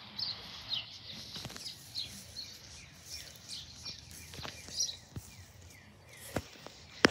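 Small birds chirping: short, high, falling chirps repeating every half second or so, with a few faint knocks in between.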